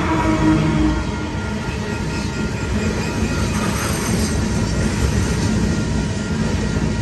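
Freight train rolling past at close range: a steady rumble and clatter of rail cars' wheels on the track.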